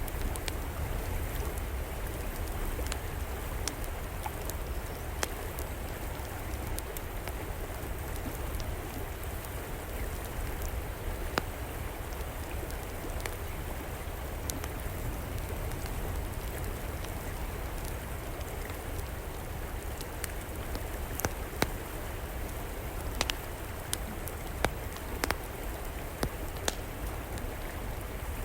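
A river flowing steadily, with an outdoor wood fire crackling over it. Sharp pops come at scattered moments, several louder ones in the second half.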